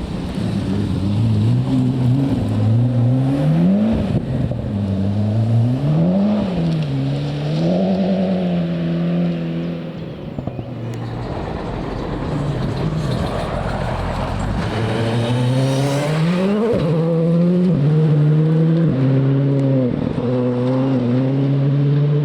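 Rally car engine at competition speed on a gravel forest stage, revs climbing and dropping again and again through gear changes and lifts for corners. The engine note falls away for a few seconds near the middle, then climbs and revs hard again.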